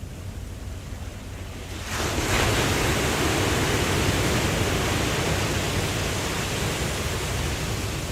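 Ocean waves: a low rumble, then about two seconds in a wave breaks and washes in with a loud hiss that slowly fades.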